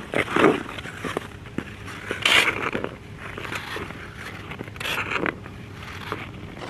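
Ice skate blades scraping across rink ice in three main strokes, with small clicks and knocks between them.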